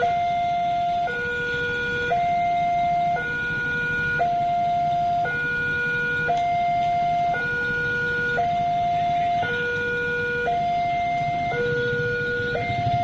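Two-tone hi-lo siren alternating steadily between a higher and a lower note, each held about a second, over a low rumble.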